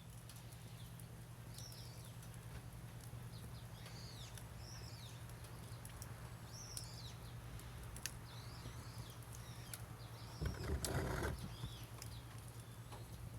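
Small birds chirping again and again in short, arched high calls, over occasional sharp pops from the wood fire and a steady low hum. A louder rustling burst comes about ten and a half seconds in.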